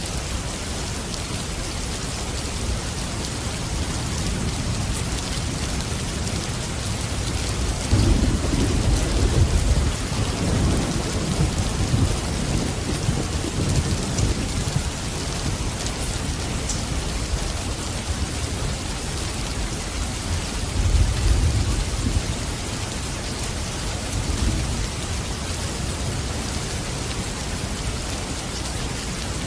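Steady heavy rain, with rolling thunder rumbling low about eight seconds in for several seconds and again briefly a little after twenty seconds.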